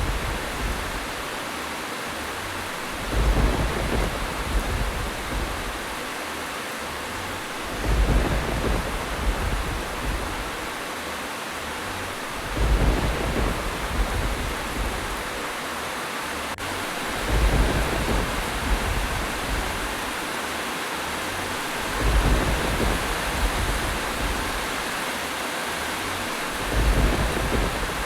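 Steady heavy rain with a low rumble of thunder swelling up about every five seconds, six times, at spacing so even that it sounds like a repeating loop.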